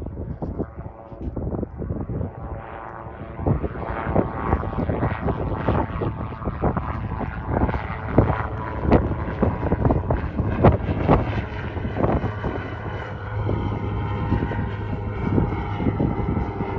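Light propeller airplane's engine running, growing louder over the first few seconds as the plane comes closer, then holding strong.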